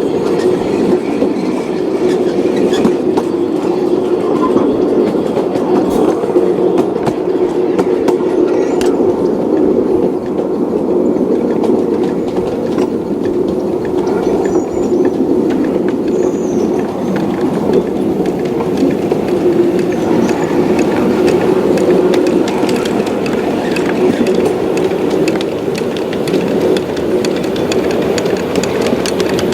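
Train running steadily along the track: a continuous rumble with a steady hum underneath.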